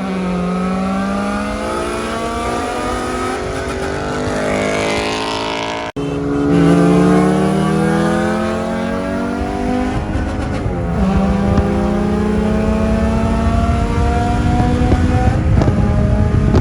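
Car engine accelerating hard through the gears. Its pitch climbs steadily, then falls back at the shifts, and the sound drops out for an instant about six seconds in.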